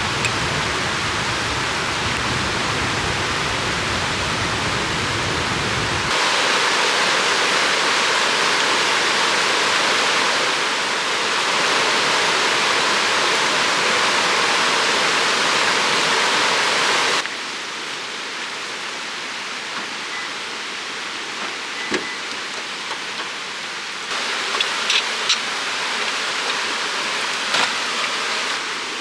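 Rushing river water, a steady noise that abruptly gets louder about six seconds in, drops about two-thirds of the way through and rises again near the end, with a few faint ticks in the last few seconds.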